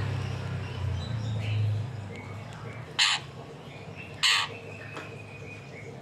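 A bird gives two short, harsh, caw-like calls about a second apart, starting about three seconds in. A low hum is heard during the first two seconds.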